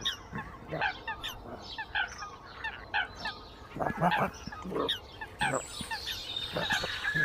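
Birds calling: a steady string of short, separate calls, roughly two a second, some of them overlapping as from several birds.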